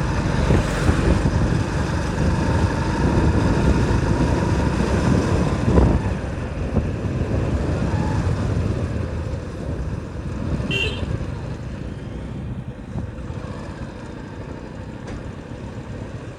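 A motorcycle riding uphill with heavy low wind rumble on the microphone and a steady tone for the first six seconds. A short high-pitched sound comes about eleven seconds in, and the ride noise eases toward the end.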